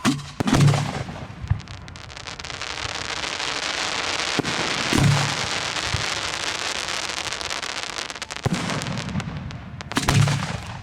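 Fireworks display heard close to the launch site: loud shell bursts boom near the start, around the middle and near the end, with a long dense crackling hiss lasting several seconds between them.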